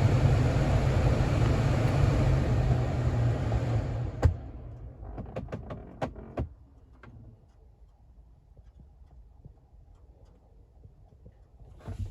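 2022 Ford Bronco running, then shut off with a sharp click about four seconds in. As it winds down, a string of separate clicks and ticks comes from the dashboard area, thinning out over the next few seconds: the shutdown noise the owner is reporting.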